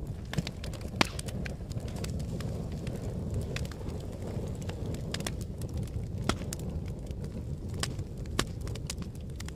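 Fire burning with a low, steady roar and irregular sharp crackles and pops, the loudest pop about a second in.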